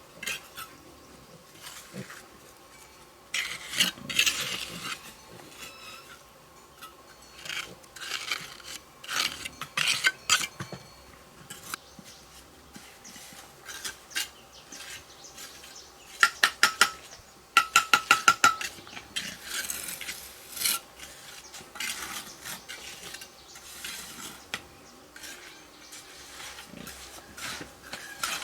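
Hand work with intermittent scraping and rubbing strokes and clinking, broken about two-thirds of the way through by a quick run of sharp taps.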